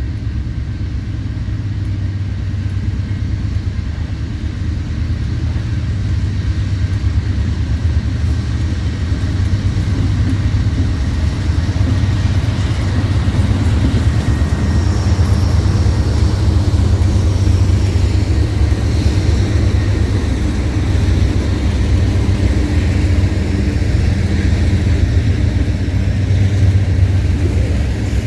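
Freight train passing with a steady, heavy low rumble that grows a little louder partway through, with faint high squeals over it.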